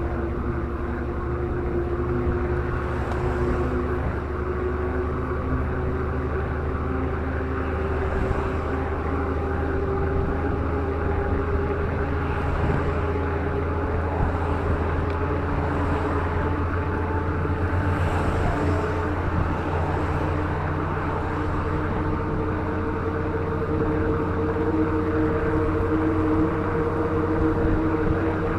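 Wind rushing over the microphone of a road bike drafting close behind a truck at speed, with the steady drone of the truck's engine ahead; the engine note climbs slowly.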